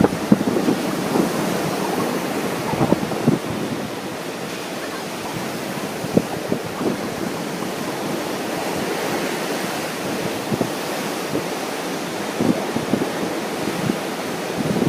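Ocean surf washing steadily under strong wind, with wind buffeting the microphone in gusts, strongest at the very start and just after the end.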